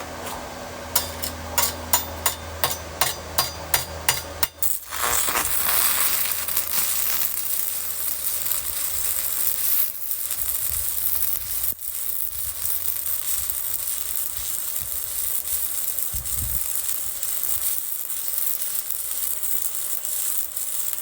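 Stick welding with a 1/8-inch Hobart electrode on a small inverter welder set near its maximum of about 138 amps. A quick run of taps as the rod is struck to start the arc, then the arc sizzling steadily, with two brief breaks, until it stops near the end; the arc is running hot enough at this setting.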